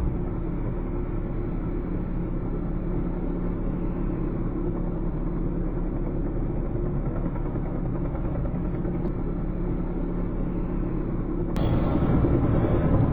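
Helicopter engine and rotor noise, a steady rumble with a constant hum running through it. About eleven seconds in it cuts abruptly to louder, brighter engine noise.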